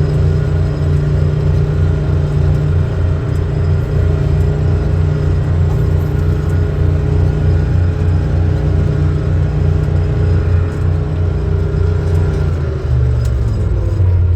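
Big four-wheel-drive tractor engine running hard under heavy load, pulling a stuck tractor and spreader through soft, wet ground with the wheels spinning. The engine note holds steady with an even low pulsing, then drops to a lower, smoother note about thirteen seconds in.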